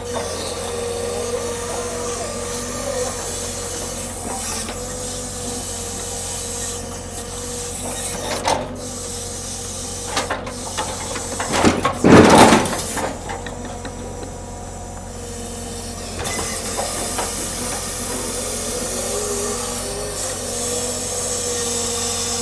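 Heavy hydraulic machinery running steadily during log unloading, with a constant whine and hiss, and a short, louder burst of noise about halfway through.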